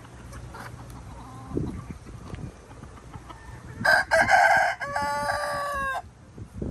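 A rooster crows once, about four seconds in: a loud, roughly two-second crow ending in a long held note. Softer chicken clucking comes before it.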